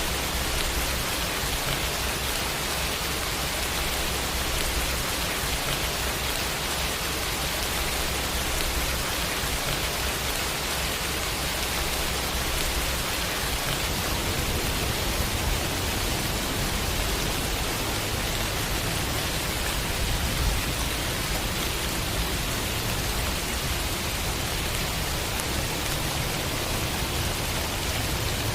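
Steady rain falling, an even, dense hiss with a low rumble underneath that shifts about halfway through.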